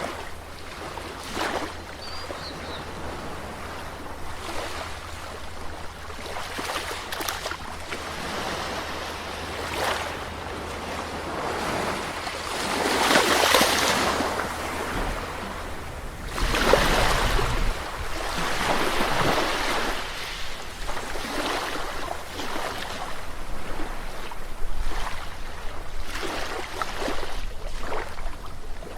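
Sea waves breaking and washing in, a rushing surf that swells loudest about halfway through and again a few seconds later.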